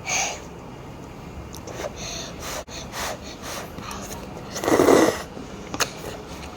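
A boy breathing hard and sniffing after eating very spicy instant noodles, with short puffs of breath and one louder gasping exhale about five seconds in.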